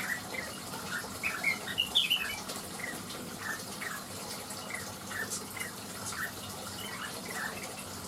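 A cucak wilis (leafbird) singing: a run of short, quick chirps and whistled notes several times a second, with a louder, higher flurry about two seconds in, over a steady background hiss.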